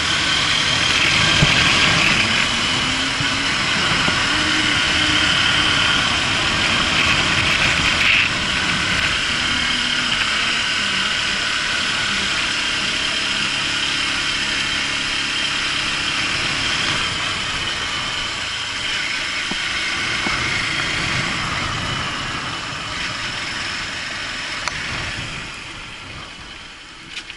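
Honda CBF150's single-cylinder four-stroke engine running as the motorcycle is ridden, its note rising and falling with the throttle, under a steady rush of wind and road noise at the helmet-mounted camera. The sound eases off near the end as the bike slows.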